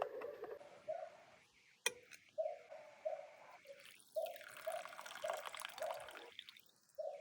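Water bubbling and gurgling in a fireclay teapot, a short low bloop every half second or so, with a sharp click at the start and another about two seconds in.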